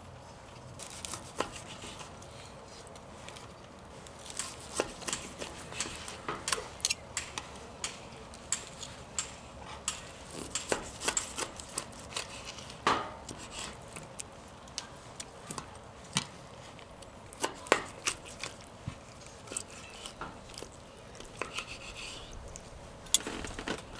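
Utensils tapping, clinking and scraping against dishes or a pan in irregular, sharp knocks.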